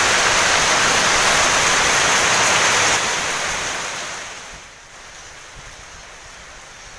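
Heavy rain driven by strong wind: a loud, steady rushing that dies down between about three and five seconds in to a much softer, steady patter of rain.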